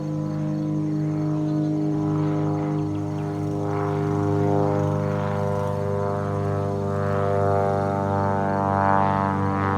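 Small propeller plane departing after takeoff, its engine droning steadily and growing louder and fuller from about four seconds in as it approaches overhead.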